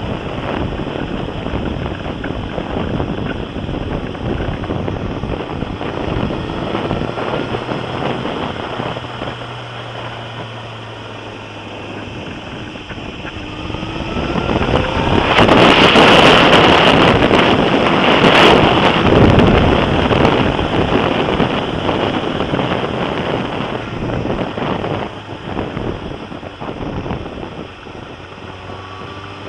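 Heavy wind buffeting a helmet or bike-mounted camera microphone on a moving Suzuki GSX-R motorcycle, with the engine note underneath, rising in pitch several times as the bike accelerates. About halfway through, a louder rush of wind lasts several seconds, with a couple of sharp clicks in it.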